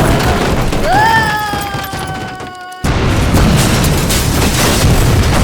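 Dramatic crash and explosion sound effects. A loud rumble carries a pitched wail that rises sharply about a second in, then sinks slowly. It cuts off abruptly and a loud boom follows, rumbling on.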